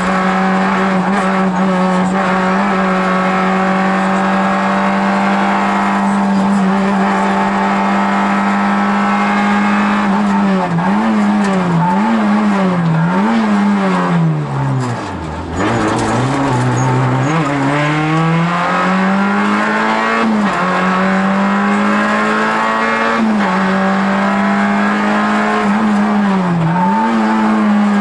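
Rally car engine heard from inside the cabin, held at high revs at full throttle with brief dips as it changes gear. About halfway through the revs fall steeply to a low point and then climb back up through the gears.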